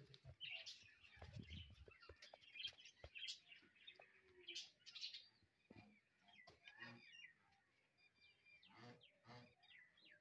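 Faint birds chirping in short, scattered calls, with a soft low thump about a second in.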